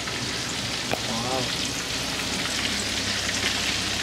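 Chicken chilli frying in hot oil in a pan on a gas stove: a steady sizzling hiss, with a single click about a second in.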